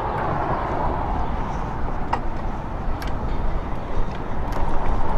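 Steady road noise from passing motor traffic, with low wind rumble on the microphone of a moving e-bike and a few faint clicks.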